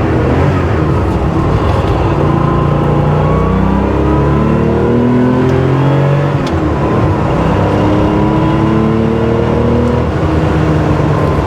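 Porsche 911 SC's air-cooled 3.2-litre flat-six, with its special exhaust, pulling hard under acceleration. The revs climb steadily, drop back at a gear change about six seconds in, and climb again. This is a hard break-in run under load, with the road used as a dyno.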